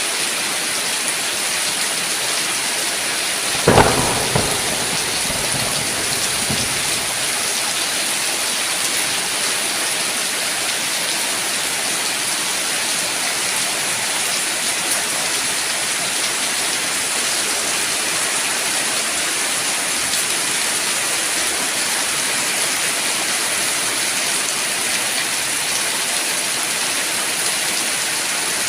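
Steady heavy rain hissing throughout, with one sudden thunderclap about four seconds in that rumbles away over a couple of seconds.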